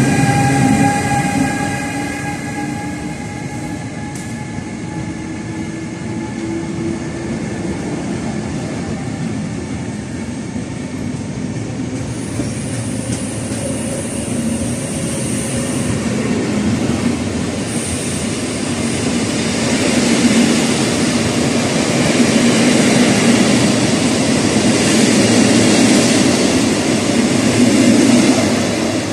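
Passing train hauled by a Siemens ES64F4 (Class 189) electric locomotive: its motor whine falls slowly in pitch over the first few seconds. The passenger coaches and car-carrier wagons then roll past with a steady rolling noise, and a thin high wheel squeal comes in from about twelve seconds, growing louder towards the end.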